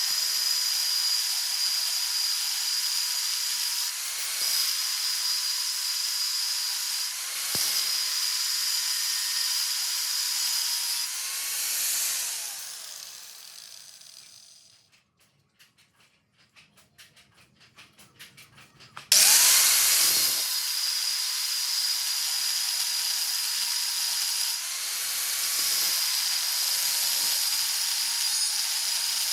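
Electric grinder running on steel with a steady high whine and a strong hiss, its pitch dipping briefly under load a few times. About twelve seconds in it winds down and stops, leaving only faint quick clicks, then switches back on with a rising whine around nineteen seconds.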